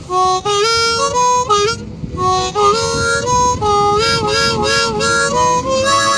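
Blues harmonica (harp) playing an opening phrase of a slow blues, with bent notes sliding into pitch, and a short break about two seconds in before the line picks up again.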